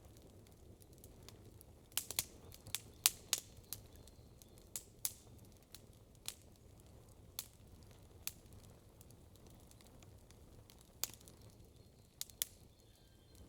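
Wood campfire crackling: irregular sharp pops and snaps, a quick cluster of them about two to three and a half seconds in, then single pops scattered through the rest, over a faint low rumble.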